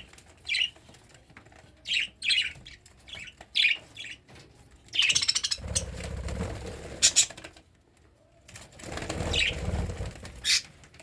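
Cockatiel giving a few short, high chirps in the first few seconds, with longer bursts of rustling noise around the middle and again near the end.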